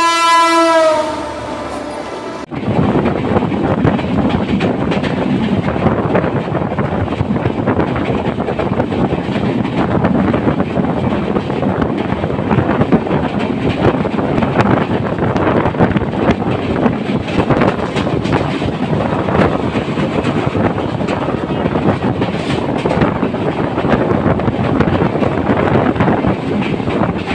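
A diesel locomotive's horn sounds for about a second. About two and a half seconds in, a loud, steady rushing noise sets in abruptly: an express train hauled by an EMD GT42ACL locomotive passing close at speed, with wheels clattering over the rails.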